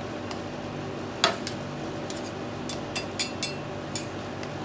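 Steady hum of an ice pan's 1500-watt refrigeration compressor, with a sharp tap about a second in and a few light clicks and ticks around three seconds in.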